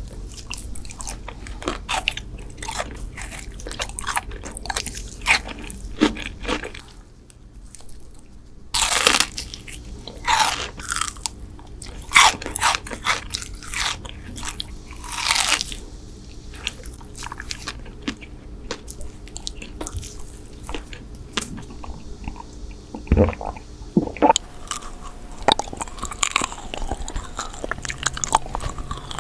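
Close-miked eating sounds of sweets: crisp bites and crunches with chewing in between, in quick irregular bursts.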